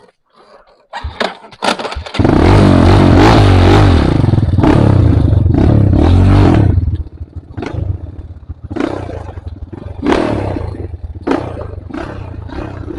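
Trail motorcycle engine: a few knocks and scrapes, then the engine runs loud under heavy throttle for about five seconds with its pitch wavering, then drops to a lower run broken by four short throttle blips.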